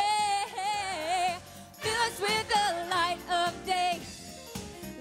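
Gospel song: a singer holds long notes with vibrato, then sings short, runs of phrases.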